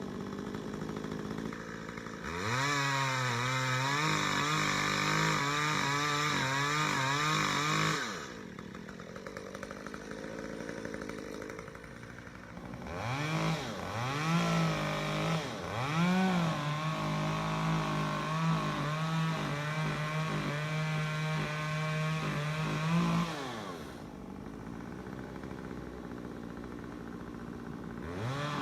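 Chainsaw running at full throttle for several seconds, dropping back to idle, blipped up a few times and held at full throttle again, then idling, while a Douglas fir is cut into chunks.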